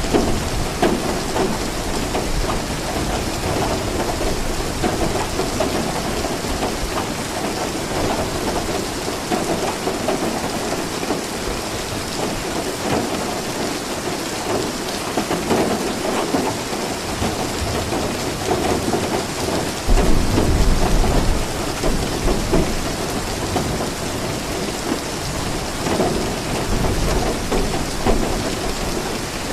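Steady rain falling, with a deep rumble of thunder rolling in about two-thirds of the way through.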